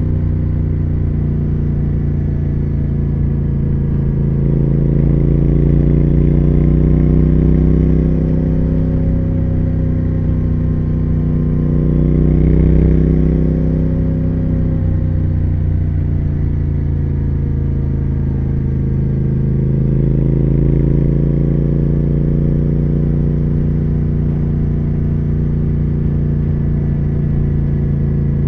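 2020 Triumph Speed Twin 1200's parallel-twin engine and exhaust running under way, the engine note rising and falling gently with the throttle: a swell a few seconds in, a higher peak near the middle, a dip, then another rise.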